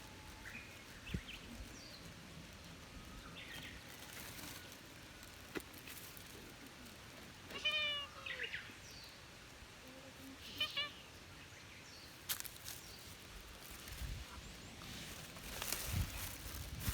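Cat meowing twice: a short, slightly falling meow about eight seconds in and a briefer one a couple of seconds later. A few soft knocks follow near the end.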